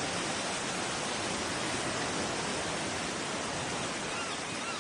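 Steady rush of flowing water, an even hiss with no break, with a few faint short chirps near the end.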